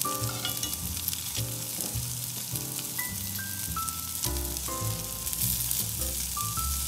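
Pieces of ribeye steak sizzling steadily in a hot cast-iron skillet on a grill. Background music with a stepping melody and a bass line plays along.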